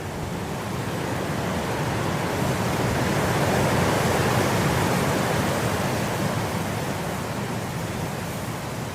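Wind blowing through grass in a steady rush that swells in the middle and eases off again, like a passing gust.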